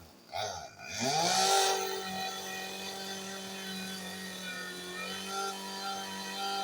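Two-stroke chainsaw engine starting: a short burst about half a second in, then it catches about a second in, rises in pitch to a brief loud rev, and settles into a steady idle.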